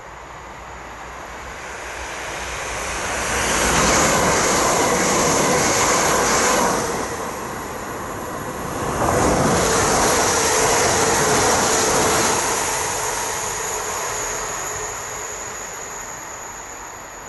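Passenger train passing close by on an electrified line: a loud rush of wheels on rail with a high, steady whine. It builds over a few seconds, dips briefly midway, rises again, then fades away near the end.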